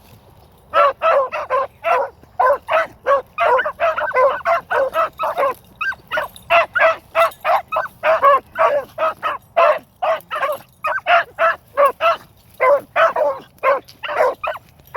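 Beagles baying on a trail: a fast, unbroken run of short yelping bays, several a second, starting just under a second in.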